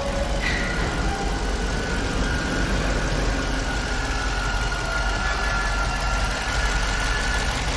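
5.7-litre V8 engine idling steadily just after a top overhaul, running without the knock from the left side that its failed hydraulic lifters and worn camshaft had caused. A faint whine sits over the idle, with a short chirp about half a second in.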